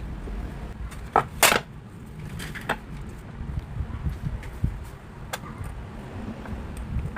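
A handful of sharp metallic clicks and knocks, the loudest about a second and a half in, over a low steady rumble, typical of hand work on a car.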